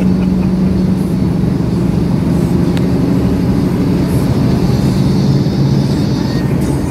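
Cummins diesel engine in a big rig running steadily, its pitch dropping a little about five seconds in.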